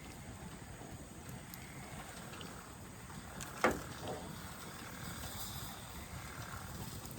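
Campfire burning with a steady low crackle, and one sharp knock about halfway through, followed by a softer one.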